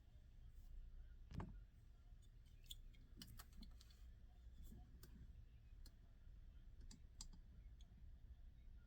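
Faint, scattered small clicks and taps from a die-cast toy car being handled, over near silence, with one soft thump about a second and a half in.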